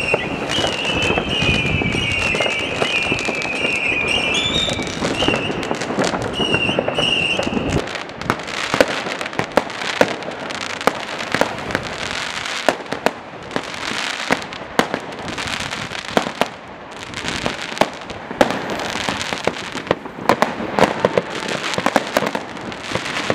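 Firecrackers and fireworks banging on all sides: a dense, irregular run of sharp cracks over a continuous crackle, thickest from about a third of the way in. For the first several seconds a high, wavering whistle runs over the bangs.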